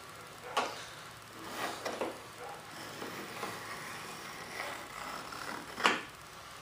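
Pencil scratching on a wooden board as a line is marked, with a sharp knock about half a second in and another near the end.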